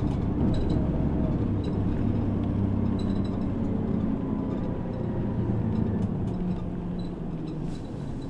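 A city bus's engine running while the bus drives, heard from inside the passenger cabin, with light ticks and rattles from the interior. The engine note shifts a little in pitch and eases slightly toward the end.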